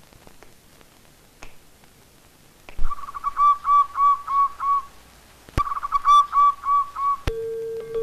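A songbird calling: two runs of quick, evenly repeated clear whistled notes, one after another. A sustained mallet-instrument note of music comes in near the end.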